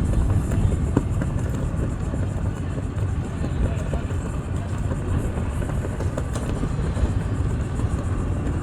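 Engines idling: a steady low rumble with a few faint knocks.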